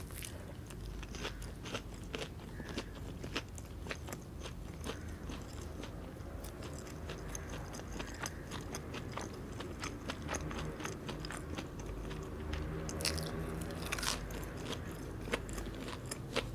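Close-miked eating: steady chewing and biting with many small wet clicks, and two sharper crunches near the end.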